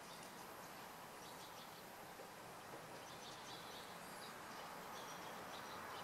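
Faint, steady outdoor background noise with scattered short, high chirps of distant small birds.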